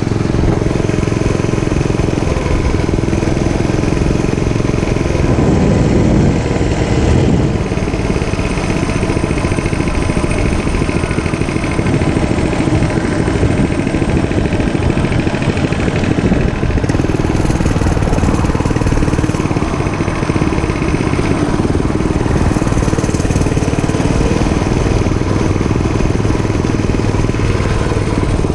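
Dirt bike engine running steadily, its pitch rising and falling now and then.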